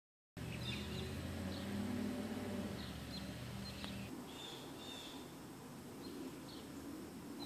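Birds chirping in short high calls scattered throughout, over a low steady mechanical hum that stops about halfway through.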